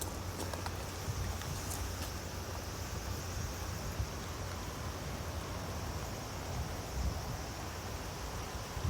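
Steady outdoor background: a low wind rumble on the microphone under an even, faint high-pitched hiss, with a few light ticks in the first couple of seconds.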